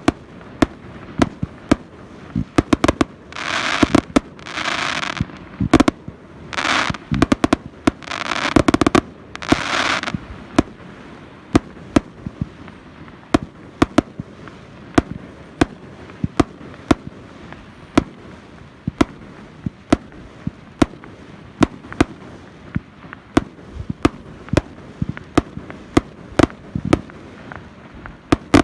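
Fireworks display: a steady run of sharp bangs from bursting shells, several a second at times, with several hissing, crackling bursts of about a second each between about three and ten seconds in.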